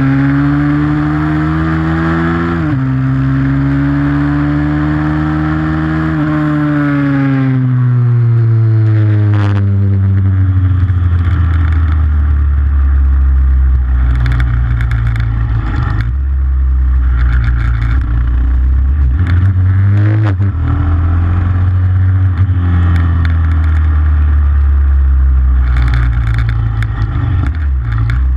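Pit bike engine revving hard under load, with a sudden drop in pitch at a gear change about two and a half seconds in. From about ten seconds on it settles to lower, steadier running with small rises and falls of the throttle.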